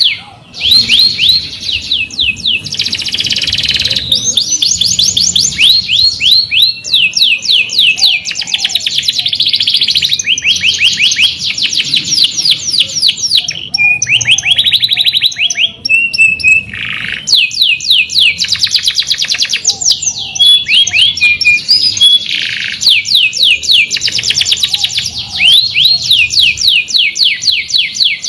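Domestic canary singing a long rolling song: fast trills of repeated high sweeping notes, one run after another with only brief breaks.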